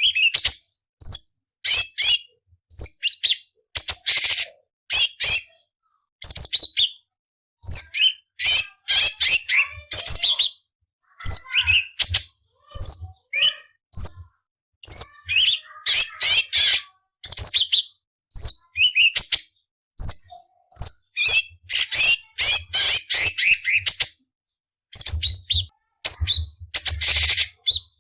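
Orange-bellied leafbird (cucak cungkok) singing a quick run of short, varied phrases: sharp sweeping whistles and rough, buzzy rasps, broken by brief pauses.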